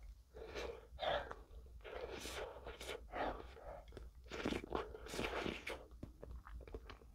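Close-up mouth sounds of a person eating a mouthful of ice cream: soft, irregular wet chewing and smacking with short breaths in between.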